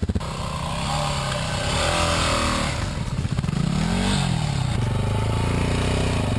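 Motorcycle engine running under changing throttle, its pitch shifting up and down, with a quick rev up and back down about four seconds in.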